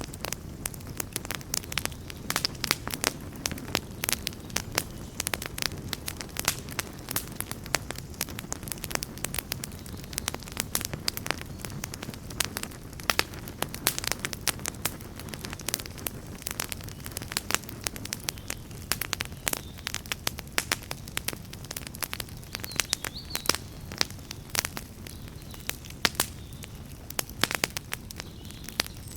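Wood fire burning, with frequent irregular crackles and pops over a steady low rumble of flames.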